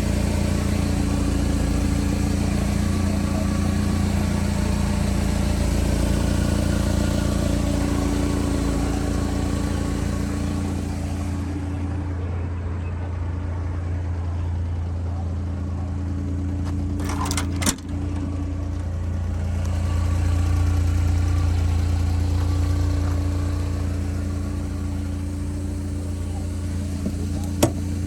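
Engine of a 1992 Subaru Sambar supercharged kei truck running steadily with a low hum. A hiss above it drops away about eleven seconds in, and a couple of sharp clicks come a few seconds later.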